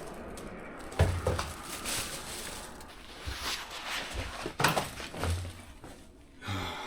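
Footsteps crunching over gravel and debris: a handful of irregular steps, each with a low thud and a crackle.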